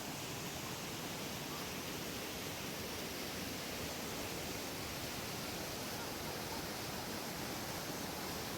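Steady rushing water, an even, unbroken hiss.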